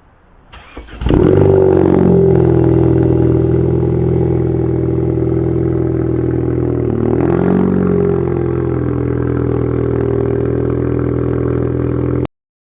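Ford Focus ST's turbocharged engine starting up: a few clicks, then it catches and flares before settling into a steady idle. The revs dip and pick up again about seven seconds in, and the sound cuts off suddenly near the end.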